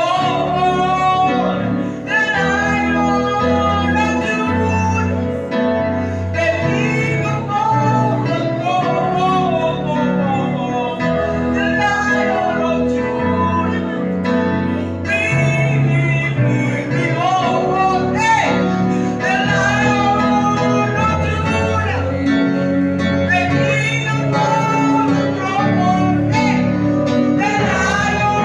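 Worship song sung by voices over instrumental accompaniment, with a sustained bass line under it.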